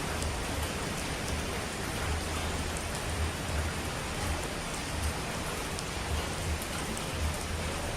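Steady heavy rain hiss with scattered drop ticks, over a low rumble that swells and fades unevenly.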